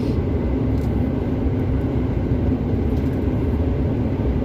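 Steady low drone of a long-haul truck heard from inside the cab while driving: engine and road noise.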